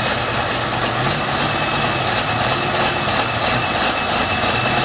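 Heavy engine idling steadily, with a thin high-pitched whine held above it.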